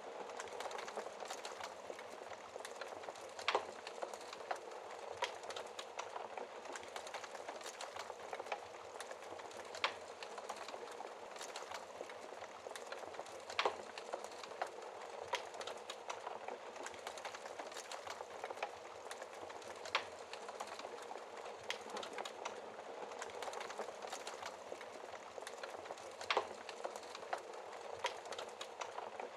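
Wood fire burning in a fireplace, crackling steadily with a bed of small crackles and a sharp louder pop every few seconds.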